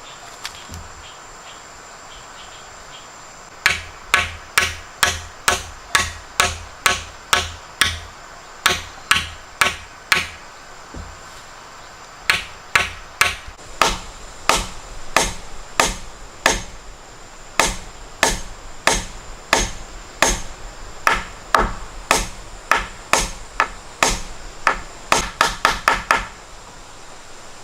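Repeated chopping strikes, about two a second, starting a few seconds in, pausing briefly in the middle, and ending in a quick flurry of blows.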